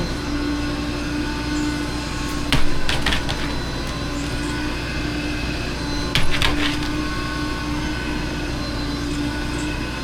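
A steady machine hum with one constant tone, broken by a few sharp knocks: one about two and a half seconds in, and a short cluster about six seconds in.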